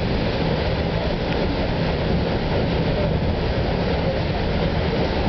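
Steady running noise heard from inside a New Jersey Transit Arrow III electric multiple-unit railcar moving at speed: an even rumble of the car riding on the rails.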